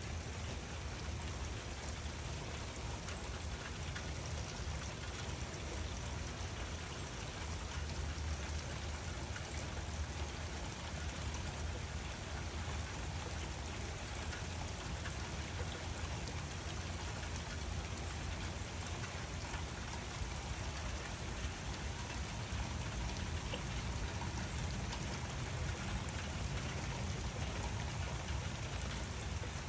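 Steady rain falling, an even hiss with scattered individual drops ticking, over a steady low rumble.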